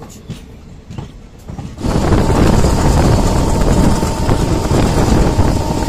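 Diesel-hauled express train running, a loud steady rumble with wind buffeting the microphone, coming in suddenly about two seconds in.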